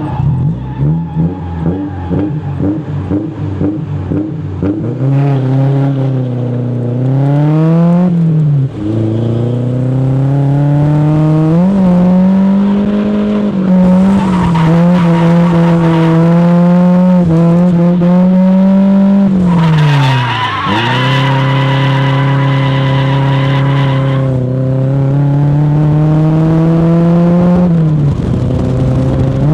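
Drift car engine revving hard, its pitch climbing and held high through long slides, with tyre squeal that is strongest in the middle stretch. The engine runs choppy and low in the first few seconds, and its pitch dips sharply twice, about a third of the way in and again past the middle.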